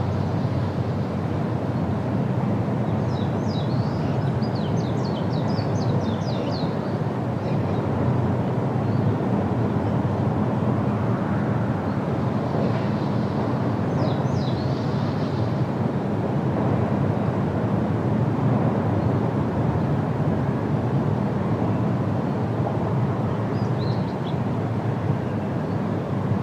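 Steady wind noise with a low rumble. A small bird gives a quick run of high chirps a few seconds in, and a few shorter chirps follow later.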